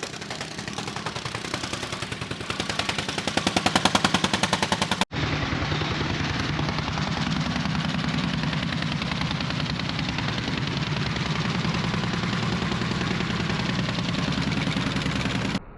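Gas-powered soil compactor pounding the gravel base in a fast, steady rapid-fire rhythm. It cuts abruptly about five seconds in to another stretch of the same continuous machine pounding.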